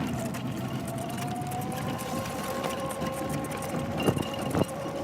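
Golf cart driving, its motor a steady whine that drifts a little in pitch, with two sharp knocks near the end.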